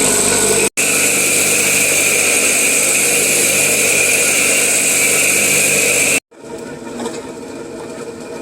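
A motor-driven machine running steadily and loudly with a high whine, cut off abruptly twice; after the second break a quieter machine hum goes on.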